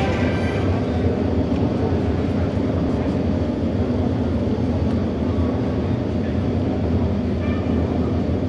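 Auto race motorcycle engines running together in a steady, dense low drone.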